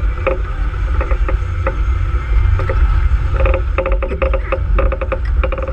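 Wind buffeting the microphone aboard a sailboat under way in a 15-20 knot breeze: a steady low rumble, with a run of quick knocks and taps that thickens in the second half.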